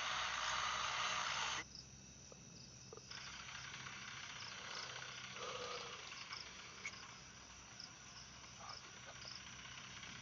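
Insects calling: a loud, dense buzzing that stops abruptly a second and a half in, then quieter, evenly repeating chirps over a faint low hum.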